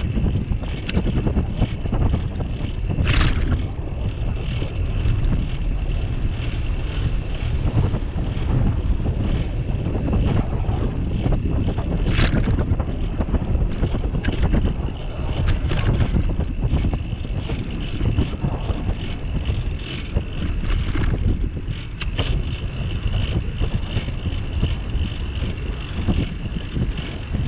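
Wind rumbling on the microphone of a bicycle-mounted camera while riding, over steady road and traffic noise. A few sharp clicks break through, one about three seconds in and others around the middle.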